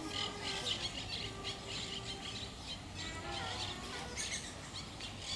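Birds calling: a dense, continuous run of short, high, squawking chirps, several a second.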